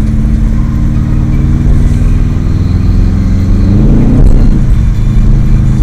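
Subaru WRX STi's turbocharged flat-four engine running steadily while driving, then revving up briefly a little past the middle and dropping back, with the revs starting to climb again near the end.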